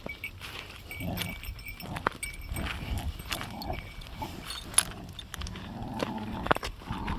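Kai Ken dogs, an adult and a puppy, playing together: short irregular grunts and growls with scuffling and a few sharp clicks.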